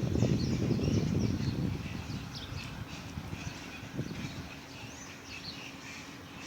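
Wild birds chirping and calling, many short calls overlapping throughout. A louder low rumbling noise fills the first two seconds, then fades.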